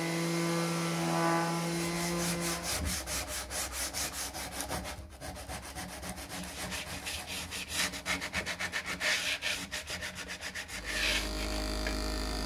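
Sandpaper rubbed back and forth by hand on wood in quick, even strokes, several a second. A steady machine hum stops about a fifth of the way in, and another steady machine noise starts near the end.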